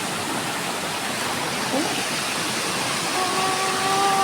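Waterfall rushing, a steady even noise. Near the end a steady held tone sounds over it for about a second.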